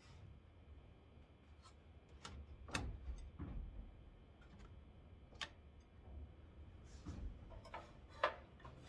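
Faint, scattered clicks and light knocks of parts and small screws being handled during a headlight replacement on a truck, with a couple of dull thuds; the sharpest click comes near the end.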